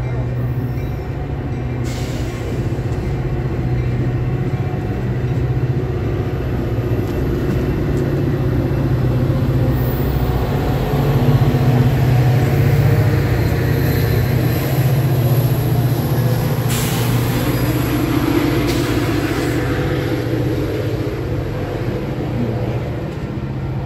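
Metra diesel commuter train of bilevel cars rolling along the track beside the platform: a steady low engine hum under the rumble of the cars, loudest about halfway and easing toward the end, with a few sharp clicks.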